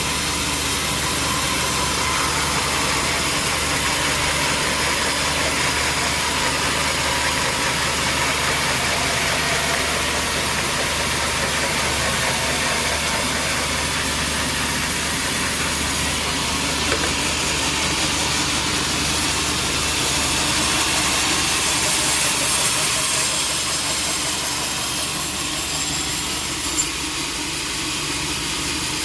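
Sawmill machinery running steadily with a constant mechanical hum and noise, with two brief knocks, one about halfway and one near the end.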